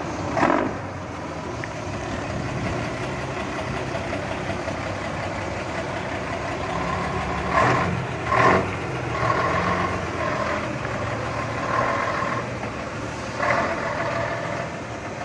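Engine of a 1975 service truck running steadily, with short louder bursts about half a second in and twice around eight seconds in.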